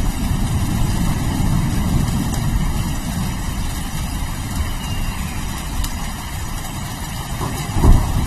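Steady rain hissing over a continuous low rumble of thunder, with one short, loud crack of thunder near the end.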